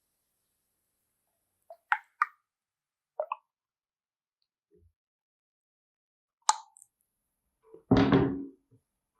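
Soap-making utensils and containers being handled: a few light clicks and taps, then a louder knock with a short ring about eight seconds in.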